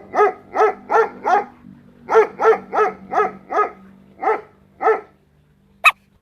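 A dog barking repeatedly, about a dozen short barks in quick runs, with a pause of about half a second in the middle.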